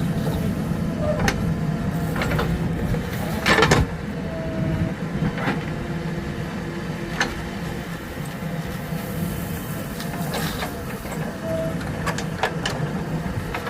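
Heavy diesel machinery running steadily, with scattered metallic clanks and knocks; the loudest clank comes about three and a half seconds in.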